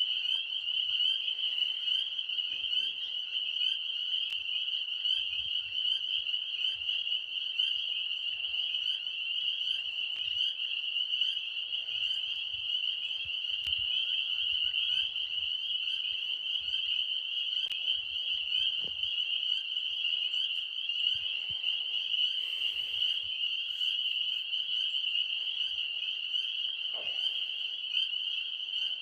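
Dense chorus of tree frogs calling, with many voices merging into one steady, high trill.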